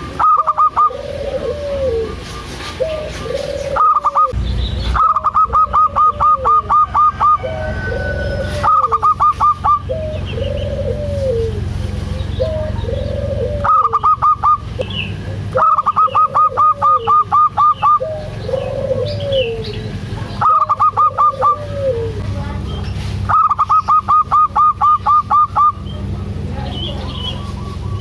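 Zebra doves (perkutut) cooing: a low arched coo repeats about every one and a half seconds. Between the coos come bursts of fast repeated higher notes, about six or seven a second, lasting one to three seconds each.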